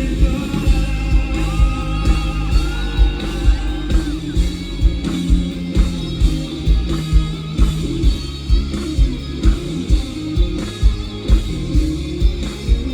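Live rock band playing: electric guitars and bass over a steady kick-drum beat. A high melody line slides up in pitch a couple of seconds in.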